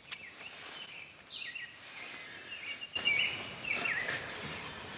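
Birds calling over a steady outdoor background noise: short chirps and warbled calls, the busiest stretch starting about three seconds in.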